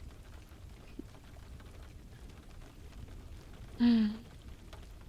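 Steady rain pattering. About four seconds in comes one brief hummed "mm" from a woman's voice, the loudest sound here.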